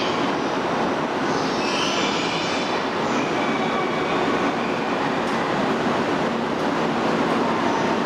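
E2 series Shinkansen train running at low speed past a station platform: a steady rushing rumble of wheels and motors, with a brief high wheel squeal about two seconds in.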